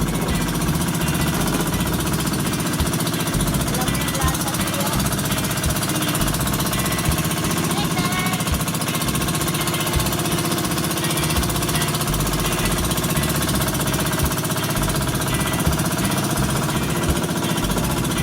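Small motorboat's engine running steadily under way, with a rapid, even pulsing.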